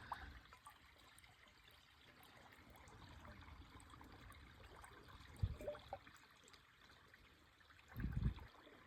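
Faint trickle of a shallow creek running, with a few soft low thumps, one about five and a half seconds in and a longer one near the end.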